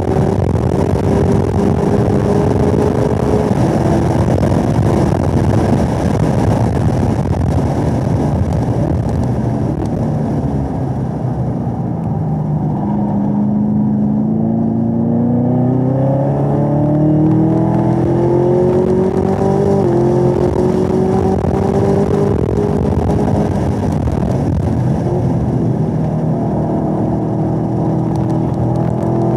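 Chevrolet Camaro ZL1's supercharged 6.2-litre LT4 V8, heard from inside the cabin. It runs hard at high revs, and then its note falls in steps over the first ten seconds or so as the car brakes and the ten-speed automatic downshifts for a corner. The note bottoms out near the middle and then climbs steadily as the car accelerates out under full throttle.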